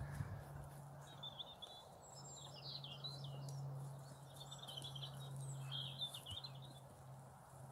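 Small birds chirping and twittering on and off over a steady low hum.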